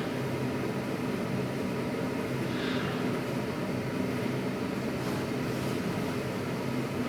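A steady low machine hum with an even background noise, unchanging throughout, with a faint brief high sound about two and a half seconds in.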